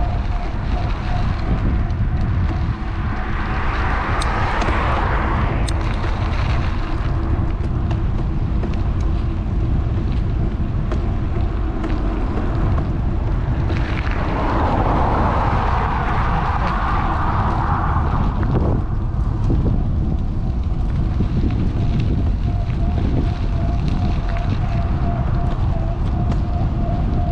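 Wind rumbling on the action-camera microphone of a moving electric bike, under a steady faint whine. Two swells of louder rushing noise come about four seconds in and again about fifteen seconds in.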